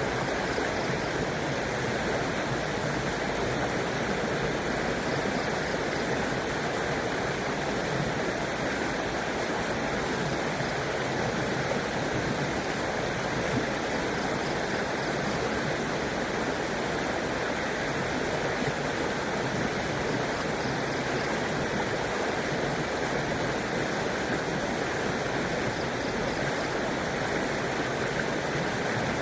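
River water flowing, a steady, even rushing that holds unchanged throughout.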